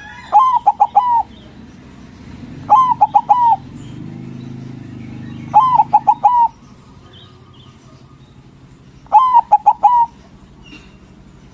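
A white zebra dove (perkutut) cooing: four phrases, each a quick run of four or five ringing notes lasting about a second, spaced a few seconds apart.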